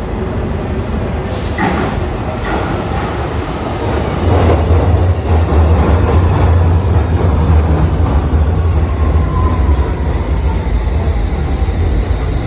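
London Underground train running, a steady heavy rumble that grows louder about four seconds in, with a few clicks early and a whine that slowly falls in pitch later on.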